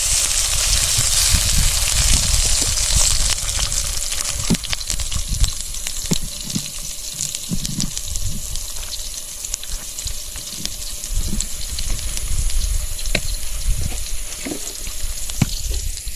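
Oil sizzling in a cooking pan over a campfire, a high hiss that is strongest for the first few seconds and then dies down, with scattered sharp crackles and a low rumble underneath.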